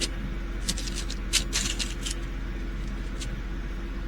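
Small plastic bags of diamond-painting drills being handled, crinkling and rustling several times over a steady low hum.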